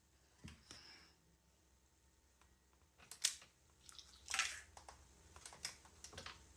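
A few faint, scattered clicks and taps, with a short rustle about four seconds in.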